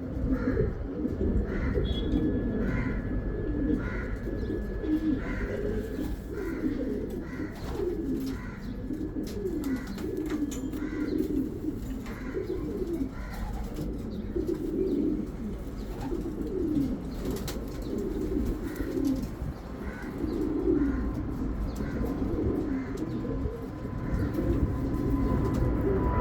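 Racing homer pigeons cooing over and over, several low gliding coos overlapping, with a steady low background hum.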